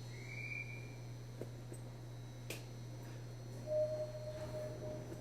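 Inside a Nishitetsu train carriage: a steady low hum, with a short high tone near the start, a single sharp click about halfway, and a steady beep-like tone held for the last second and a half.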